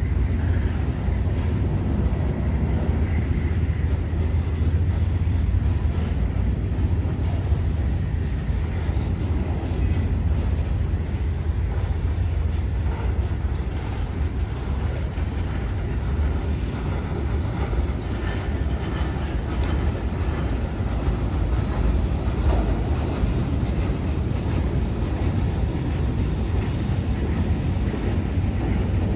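A train passing by, a steady low rumble with no breaks.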